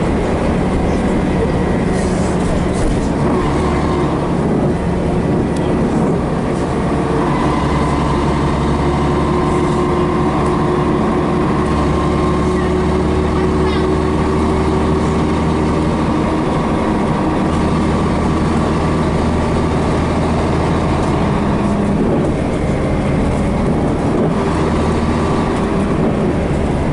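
Scania BR111H bus's diesel engine and two-speed automatic transmission running steadily under way, with a steady whine through the middle and the engine note shifting a little.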